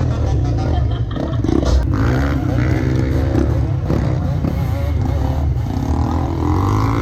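Trail motorcycle engines running with a steady low rumble, with indistinct voices over them.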